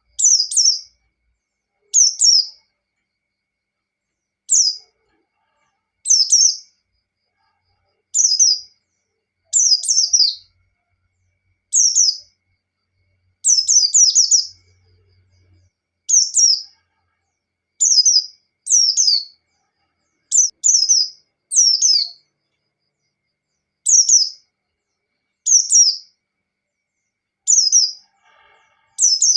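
White-eye (pleci) singing in the ngalas style: short, high, fast twittering phrases, one about every one and a half to two seconds, with dead silence between them.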